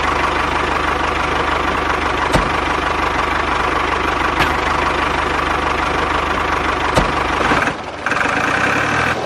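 An engine idling steadily with a fast, even beat. Near the end it briefly dips and changes to a different, more tonal note.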